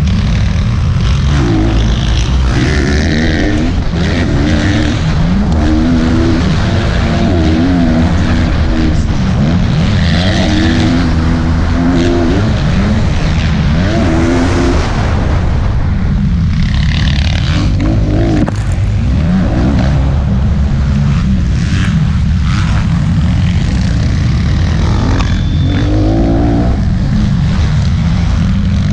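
Motocross bike engine racing, revving up and dropping back again and again, its pitch rising and falling every second or two through throttle changes and gear shifts.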